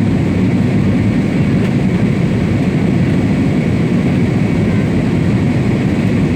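Airliner cabin noise: the steady, loud hum of the jet engines and rushing air heard from a passenger seat.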